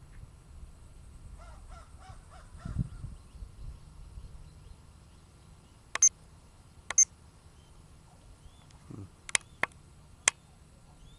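A bird calls several short notes in quick succession about a second and a half in, followed later by five sharp clicks spread over the last five seconds.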